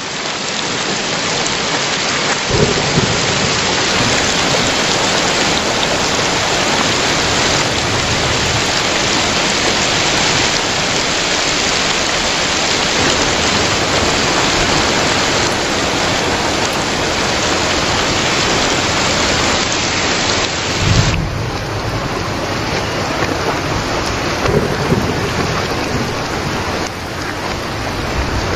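Heavy rain pouring and splashing on a hard wet surface, a dense steady hiss. Low thunder rumbles swell up a few times, the strongest about two-thirds of the way through, where the rain's hiss also softens a little.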